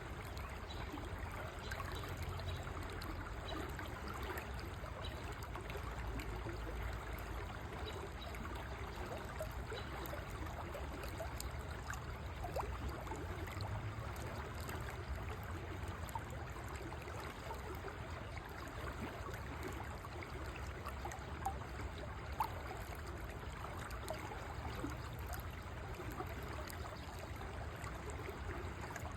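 River water flowing: a steady rush with fine trickling and gurgling, and two brief sharp ticks a little past the middle.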